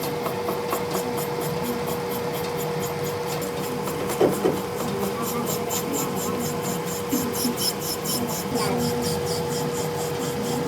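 Metal being filed or rasped: a steady run of scraping strokes, about four a second, over a constant machine hum, with one brief knock about four seconds in.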